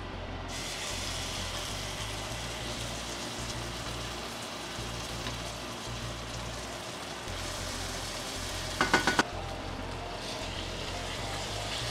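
Tomato puree sizzling and spattering in hot oil in a stainless steel pot, the sizzle starting about half a second in as the puree goes in, while a wooden spoon stirs it. A brief cluster of louder, sharper sounds comes about nine seconds in.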